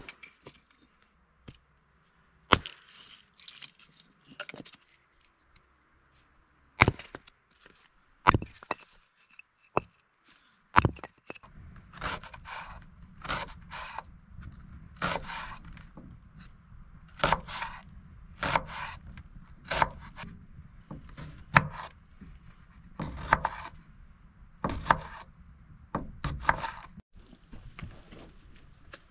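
Several sharp wooden knocks, then scraping, rasping strokes about once a second over a faint low hum.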